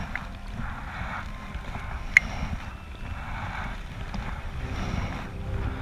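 Kayak paddle strokes dipping into the water, a soft swish about once a second, with wind rumbling on the microphone. There is one sharp click about two seconds in.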